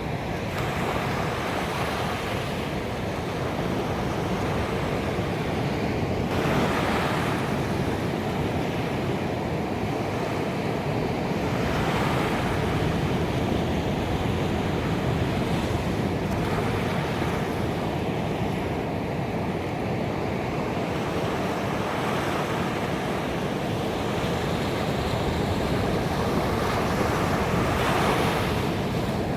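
Ocean waves breaking on a beach, a steady wash of surf with a stronger wave surging in every five or so seconds.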